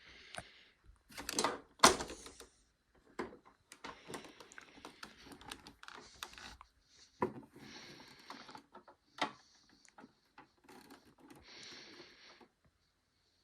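Irregular clicks, knocks and rattles of something being handled, with short scraping or rustling stretches; the loudest is a sharp knock about two seconds in.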